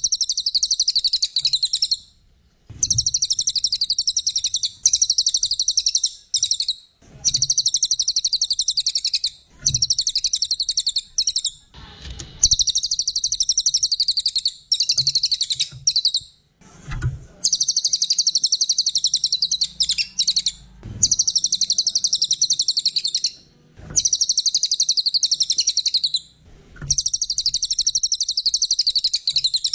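A cililin, a small songbird, singing continuously in long, fast, high-pitched chattering trills, each phrase lasting one to four seconds with brief pauses between them. A soft low thump opens several of the phrases.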